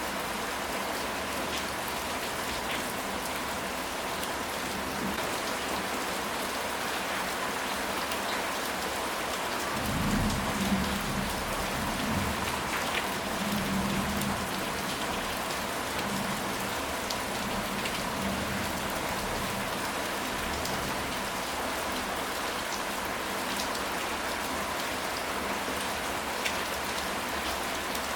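Steady rain falling on a surface, with scattered drop ticks. About ten seconds in, a low rumble of thunder rolls for a few seconds.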